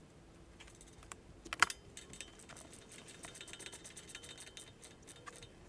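Small metal parts being handled: the nut and washer going back onto the starter motor's cable terminal. There is one sharper click about a second and a half in, then a run of quick, light metallic ticks.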